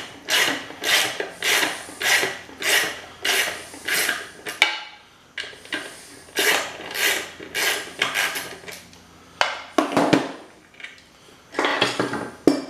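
Socket ratchet wrench clicking in repeated back-and-forth strokes, about two a second, as the brass insert is unscrewed from the pump motor's shaft. The strokes pause briefly, a few sharp knocks come near the end, then the ratcheting resumes.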